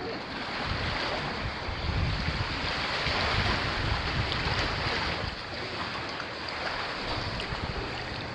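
Sea water washing and sloshing, with wind rumbling on the microphone.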